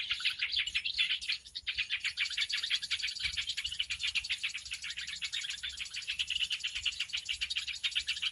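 Bird-lure recording of agitated birds chattering: a dense, unbroken run of rapid high chirps, many a second.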